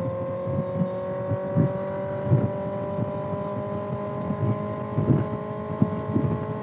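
2025 Kawasaki ZX-6R's inline-four engine running at a steady cruise, its pitch creeping up slightly, with irregular gusts of wind buffeting the rider's microphone.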